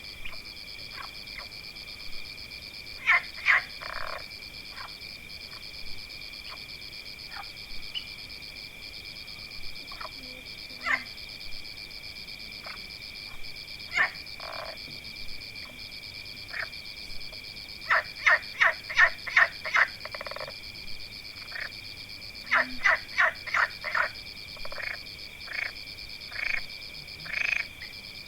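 Frogs calling: short croaks, some single and some in quick runs of five or six, over a steady, high-pitched trilling chorus that never lets up.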